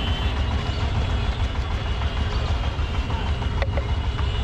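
Street background noise: a steady low traffic rumble with voices in the background, and a single sharp click about three and a half seconds in.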